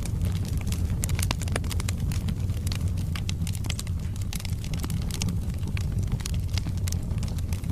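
Wood logs burning in a fireplace: a steady low rumble of the flames with frequent sharp crackles and pops of the burning wood.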